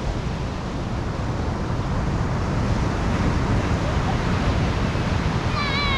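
Wind buffeting the microphone over steady surf breaking on the beach. Near the end a wavering high whine starts.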